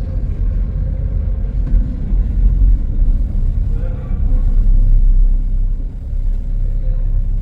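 Low, steady rumble of the Marilyn Bell car-and-passenger ferry under way, with a faint steady machinery hum above it.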